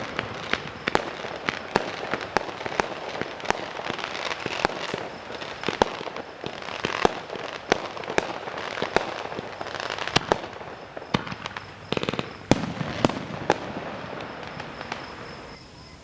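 Fireworks display going off: a rapid series of sharp bangs, two or three a second, over a continuous crackle. It thins out and grows quieter near the end.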